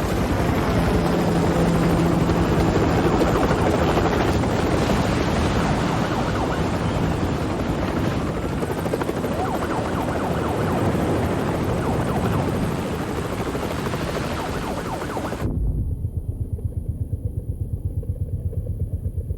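Helicopter rotor and turbine noise, loud and dense. About fifteen seconds in it cuts suddenly to a muffled, rapid, even thudding of the rotor blades.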